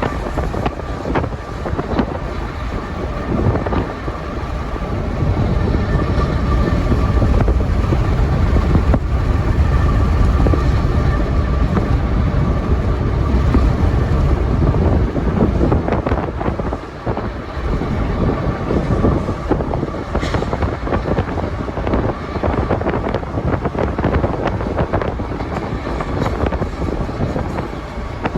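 Freight train running at about 60 mph, heard from a vehicle pacing alongside it: a steady, dense rumble mixed with wind noise on the microphone.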